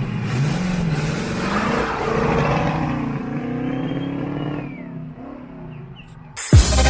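A car engine revving up and down as the car pulls away, fading out. Loud electronic music cuts in suddenly near the end.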